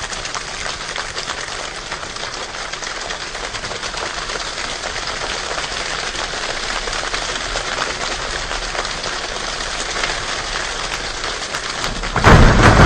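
Rain-like patter of many small taps that slowly builds in loudness. About twelve seconds in, it jumps suddenly to a much louder, heavier downpour with a deep low rumble.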